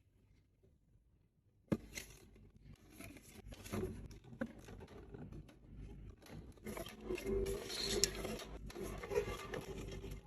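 Food packaging and containers handled while a fridge is restocked: a sharp knock a little under two seconds in, then a busy run of clicks, taps and rustling.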